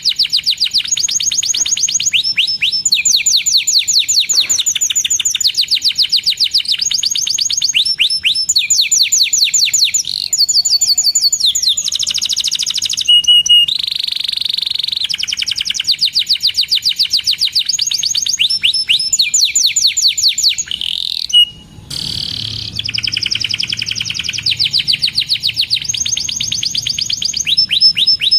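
Domestic canary singing a long, continuous song of fast trills, each phrase a rapid run of repeated chirping notes, changing from phrase to phrase. There is a short pause about three-quarters of the way through.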